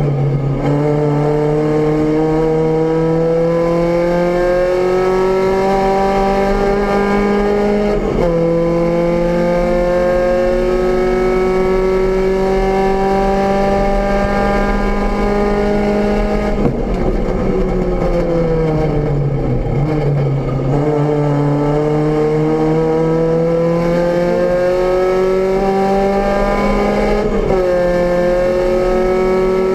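VW Rabbit GTI's four-cylinder race engine heard from inside the cockpit, pulling hard with its pitch climbing steadily through each gear. The pitch drops sharply at upshifts about 8 seconds in and near the end. In the middle the revs sag for a few seconds as the car slows for a corner, then climb again.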